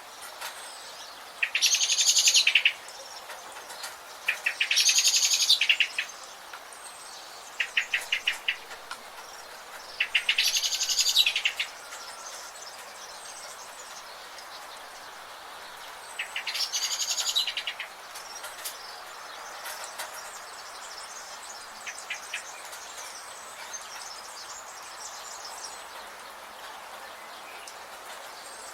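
Rainforest birds calling: four loud, rapid trilled calls of about a second each and a shorter one, spread over the first eighteen seconds. After them come only faint scattered chirps over a steady background hiss.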